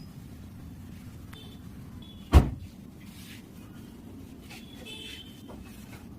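A single loud thump about two and a half seconds in, over a low steady rumble.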